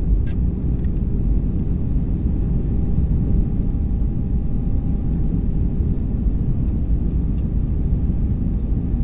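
Steady low rumble of a passenger aircraft's cabin noise from its engines and airflow, with a faint steady hum and a few faint clicks.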